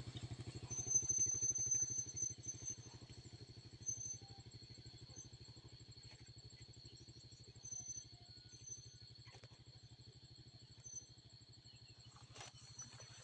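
A small engine running steadily with a fast, even pulse, a little louder in the first couple of seconds. A steady high insect drone and scattered short high chirps sit above it.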